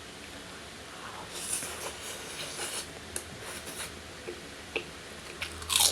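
Close-up eating sounds from a gourami fish meal: short scratchy crunching and tearing noises in irregular bursts, the loudest one near the end.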